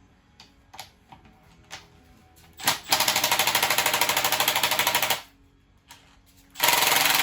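Power impact driver hammering in two bursts of about two seconds each, a fast, even rattle, with a few small tool clicks before the first burst.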